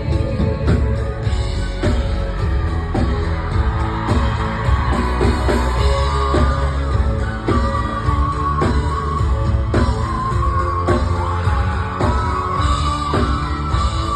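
Live rock band music heard from the audience in a large hall: a heavy bass and a steady drum beat under a sung melody.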